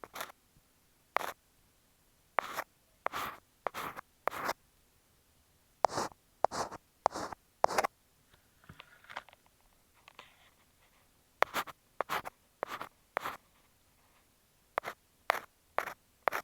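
Ear pick scraping and scratching against an earphone microphone, in short, sharp strokes that come in irregular clusters, with a softer, fainter stretch of scratching in the middle.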